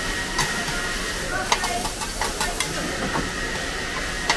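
Oyster omelette frying on a large flat wok: a steady sizzle, with metal spatulas scraping and clinking sharply against the pan about half a dozen times.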